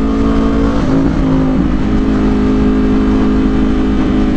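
Motorcycle engine running at a steady cruising speed on the freeway, with a slight change in pitch about a second in, over low road and wind rumble.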